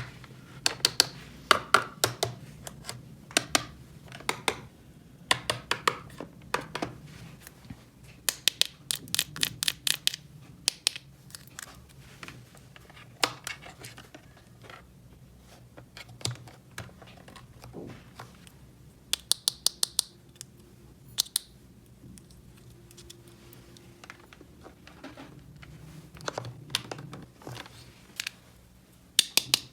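Small hard plastic toy pieces clicking and tapping as they are handled, in quick runs of clicks with short pauses between them.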